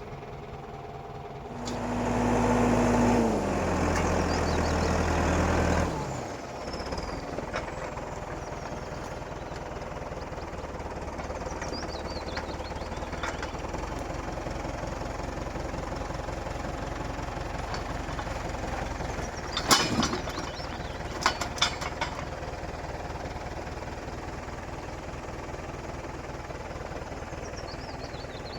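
An engine revs up loudly, steps down in pitch and drops back after a few seconds, then runs at a steady low hum. A few sharp knocks come about two-thirds of the way through.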